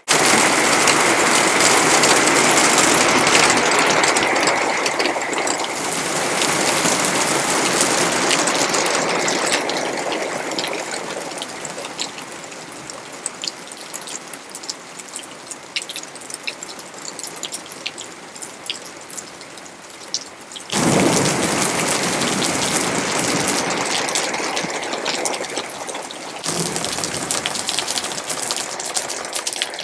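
Heavy rain pouring down, a dense hiss with many single drops ticking. It is loudest at first and eases off in the middle. The sound jumps abruptly twice in the last third as the shots change.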